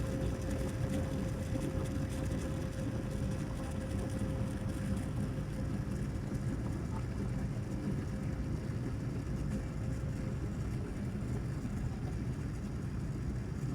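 Steady cabin noise inside a Boeing 787-9 airliner on its approach: airflow and engine drone, with a faint steady hum that fades out about ten seconds in.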